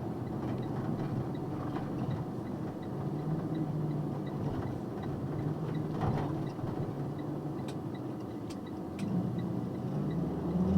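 Box truck engine running under way, its note shifting up and down as it pulls along, with a faint regular ticking about three times a second and a few sharp clicks near the end.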